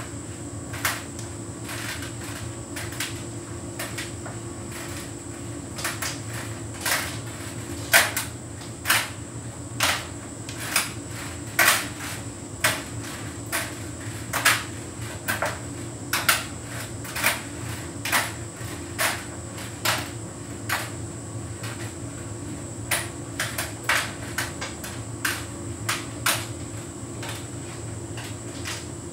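Hotpoint heat pump tumble dryer running a synthetics cycle: a steady machine hum with sharp knocks, about one or two a second from a few seconds in, as the load tumbles in the drum.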